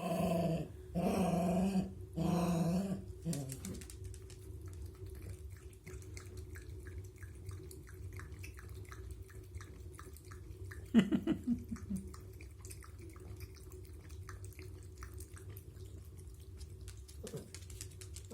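A toy terrier barking: three drawn-out barks in quick succession at the start, and one more loud bark falling in pitch about eleven seconds in. Between them come soft, rapid clicks over a steady faint hum.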